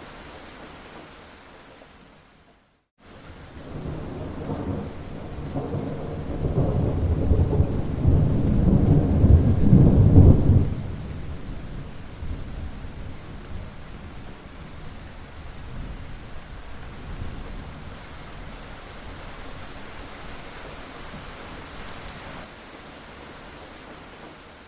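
Steady rain with a long roll of thunder that builds from about four seconds in, peaks around ten seconds and then fades back into the rain. The sound cuts out briefly just before the thunder begins.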